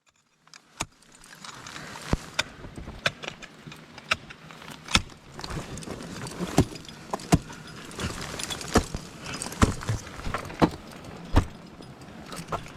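Metal climbing gear clinking and knocking at an irregular pace of about once a second over a steady rustle, as a climber moves on foot through snow and ice.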